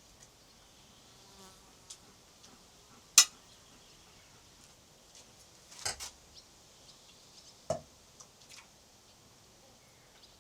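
A few sharp clinks and knocks of dishes and utensils being handled: one loud one about three seconds in, a cluster around six seconds, and one with a short ring near eight seconds. Under them runs a steady high hum of insects.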